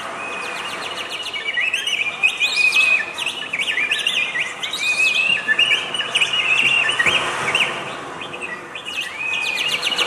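Birds chirping, with many short, quick calls repeated in a rapid series.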